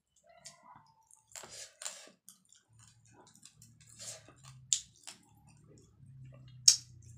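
Close-up eating sounds: chewing and sharp mouth clicks and smacks as rice with lentil dal and fried fish is eaten by hand, the loudest click near the end. A faint low hum sits underneath from about three seconds in.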